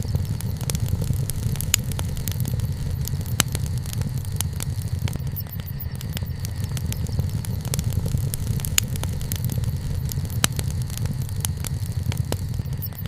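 Wood bonfire crackling, with scattered sharp pops, a few louder snaps among them, over a steady low rumble.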